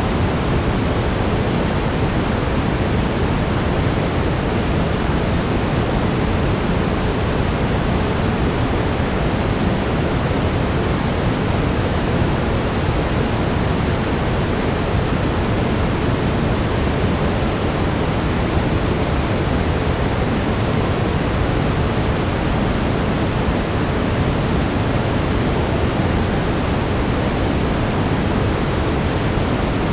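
Steady brown noise, even and unchanging, weighted toward the low end, with a faint steady tone underneath it tuned to 432 Hz.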